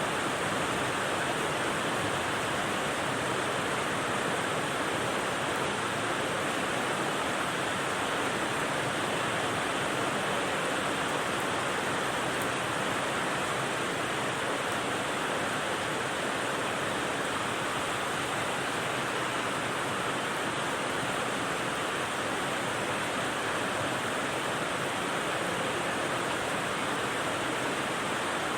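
Steady white-noise rain: an even, unbroken hiss with no separate drops or other sounds standing out.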